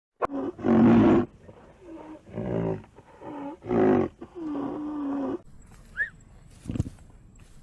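An animal calling loudly about five times in a row, the last call drawn out on a steady pitch. After an abrupt change there are a few short high chirps and a single thump.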